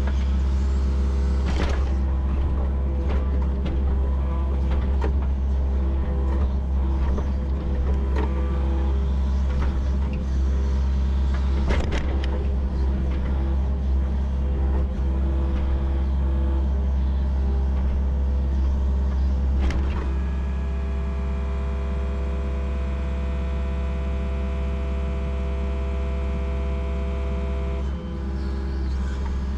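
Yanmar SV40 mini excavator's diesel engine running steadily under load while its hydraulics work the bucket. There are a few sharp knocks, and from about two-thirds of the way in a steady whine joins the engine.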